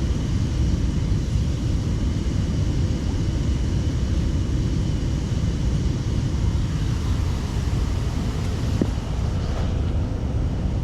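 Steady, loud low rumbling noise with no break.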